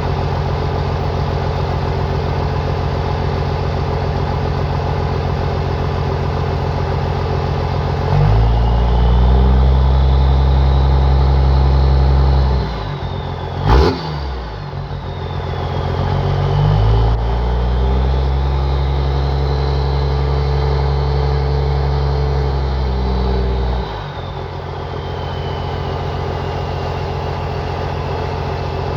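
Cummins 12-valve diesel with a Fenley HX35 turbo idling, then revved and held twice, each time with a high turbo whistle that rises and falls. The whistle spools down as the engine drops back to idle. A brief loud burst sounds between the two revs.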